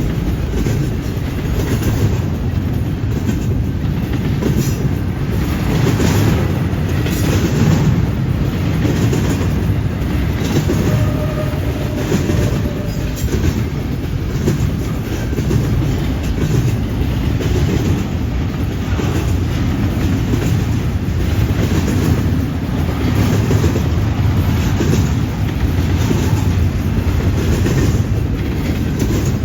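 Freight train cars rolling past at steady speed, a continuous rumble with wheels clacking over rail joints, and a brief faint wheel squeal near the middle.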